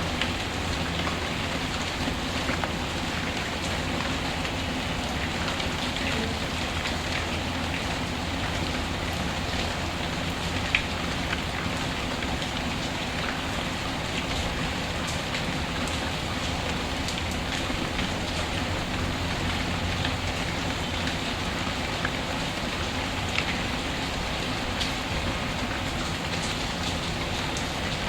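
Steady rain falling, mixed with a crackling wood fire; a few sharper pops stand out about 11 and 23 seconds in.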